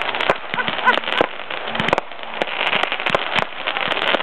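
Fireworks display crackling, with many rapid, irregular sharp pops and cracks.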